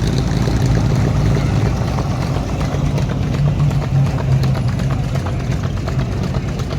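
A classic car's engine running at low revs with a steady low rumble as it rolls slowly past.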